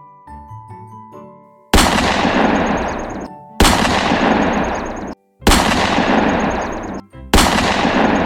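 Four loud blast sound effects, like gunfire or explosions, each hitting suddenly and dying away over about a second and a half. They follow a short run of light mallet-percussion music.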